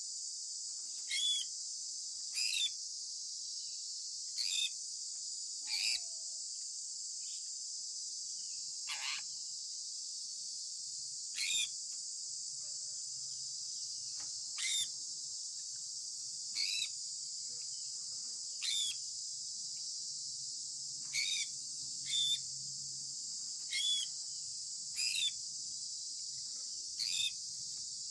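Sun conure giving short, sharp chirps, about one every two seconds, over a steady high-pitched hiss.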